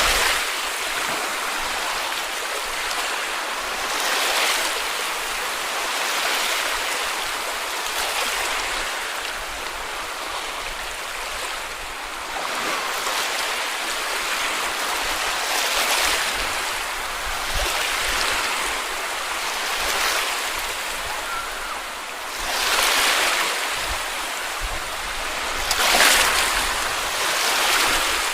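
Sea waves breaking and washing up on a beach: a steady hiss of surf with a louder surge every few seconds.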